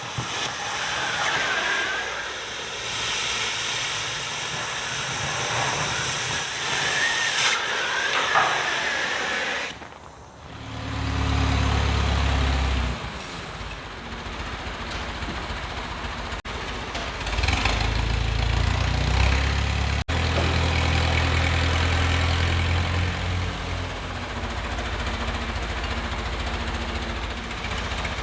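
Loud, steady hissing of shop metalwork, typical of air-arc gouging or cutting on steel plate, stopping abruptly about ten seconds in. After that, a deep, low rumble that shifts in steps.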